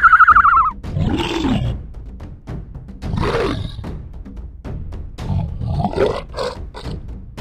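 A large animal roaring three times, the last roar the longest, over background music. It opens on the tail of a loud, high, rapidly pulsing call.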